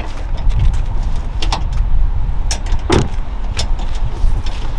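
Wind buffeting the microphone as a loud, uneven low rumble, with scattered sharp clicks and knocks; the strongest knock comes about three seconds in.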